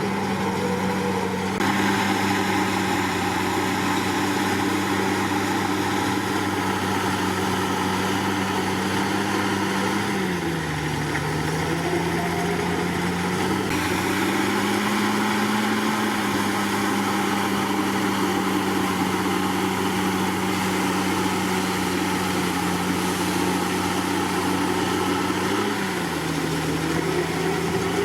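Komatsu D61PX bulldozer's diesel engine running hard and steadily. Its pitch sags briefly about ten seconds in and again near the end, as the engine pulls down under load, then picks back up.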